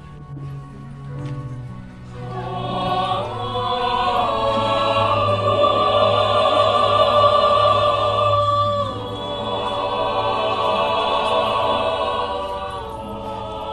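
Choir singing long held chords with vibrato, swelling in about two seconds in and easing slightly toward the end.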